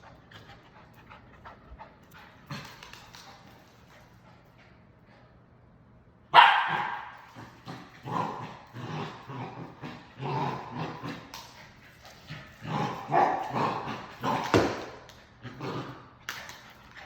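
Samoyed puppy barking and yipping excitedly in a string of short, loud calls that start suddenly about six seconds in, after a quieter stretch.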